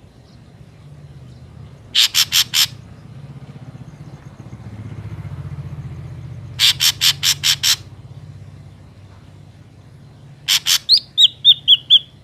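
Ashy drongo calling in three bursts of harsh, rapid notes: about four, then about six, then a couple. Near the end the last burst runs into a short series of whistled notes falling in pitch.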